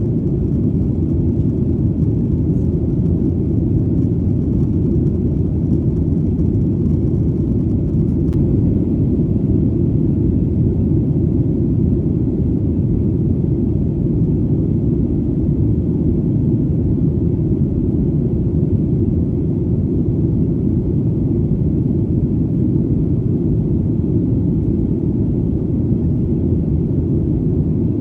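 Steady deep rumble of an airplane in flight, a constant even drone with almost nothing in the high end and no change.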